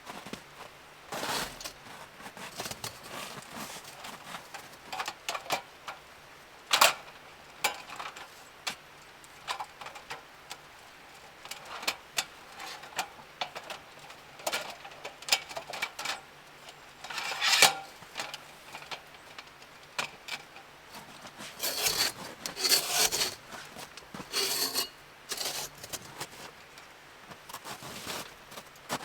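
Irregular knocks, clicks and rubbing of objects being handled, with a few sharper strikes and a stretch of denser rustling, over a faint steady low hum.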